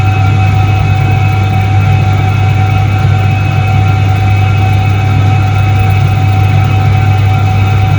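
A 1978 Soviet Iset-3 washing machine running: a steady motor hum with a strong low drone and a few constant higher tones above it, unchanging throughout.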